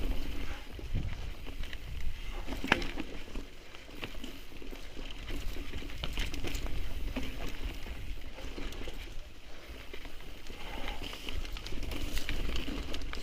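Mountain bike riding a dirt trail: a steady rumble of tyres on the ground and wind on the microphone, with a few sharp clacks from the bike, the loudest a little under three seconds in.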